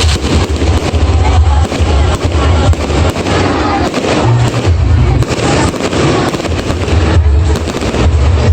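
Fireworks display, with rapid crackling and popping bursts in quick succession over loud, bass-heavy music.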